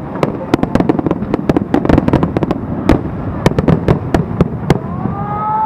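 Fireworks display: a dense volley of sharp bangs and crackles from bursting shells over a low rumble. The bangs stop about five seconds in, and voices start up.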